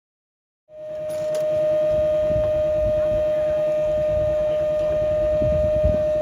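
Sound cuts in just under a second in: a loud, steady, unwavering high tone held throughout, over uneven low rumbling noise.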